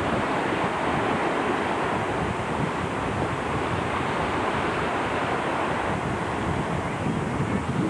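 Surf washing onto a sandy beach with wind buffeting the microphone: a steady rushing noise with no distinct events.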